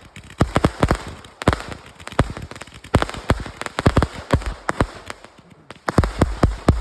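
Fireworks going off in a rapid, irregular barrage of sharp bangs and crackles, several a second, with heavier booms about six seconds in.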